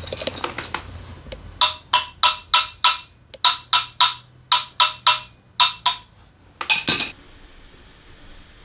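A hammer tapping a metal engine part in steady, sharp blows, about three a second, each ringing briefly at the same pitch, ending in a quick flurry of taps.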